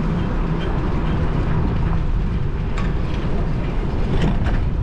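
Steady low rumble of wind buffeting the microphone and road noise as a bicycle rolls along city streets, with a few short clicks in the last couple of seconds.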